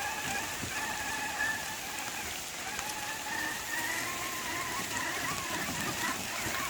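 Steady rain falling, with a thin, wavering whine over it from the electric motors of radio-controlled rock crawlers being driven.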